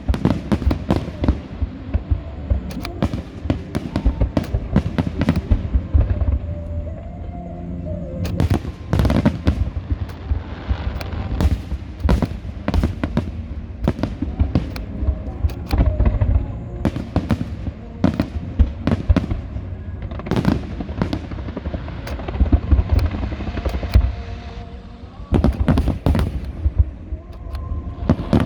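Fireworks display: a dense, near-continuous barrage of shell bursts and crackling bangs. There is a brief lull near the end before the bursts pick up again.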